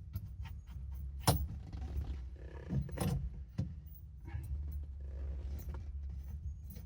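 Metal hand tools clinking and clicking against the steering column while a fastener is tightened, with irregular sharp knocks, the loudest about a second in, over a steady low hum.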